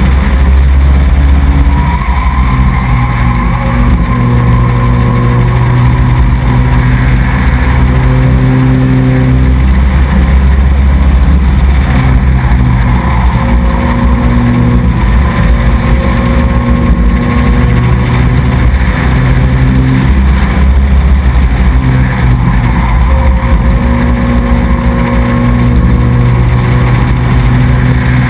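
Race truck engine running hard, picked up loud and close by a camera mounted on the truck. The engine note rises and falls in a repeating cycle every several seconds as the truck accelerates and eases off.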